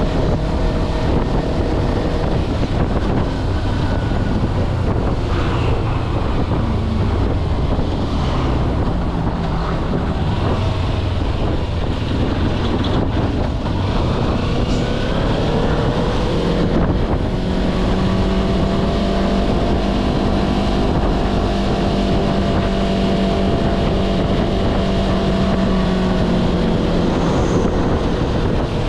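Kawasaki Versys-X 250's parallel-twin engine running on the move, its revs rising and falling before the middle, then held steady for several seconds, with wind noise on the microphone.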